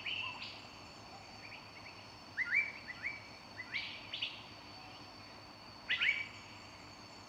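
Small birds chirping: quick rising calls in clusters of two or three, at about two and a half, four and six seconds in.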